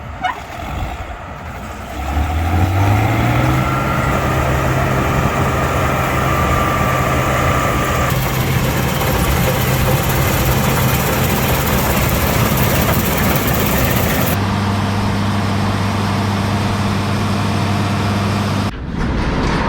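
Heavy engine running steadily after revving up about two seconds in. The sound cuts abruptly twice to a different steady engine note.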